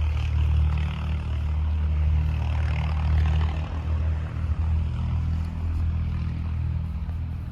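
8 hp single-cylinder diesel engine running steadily at a constant speed.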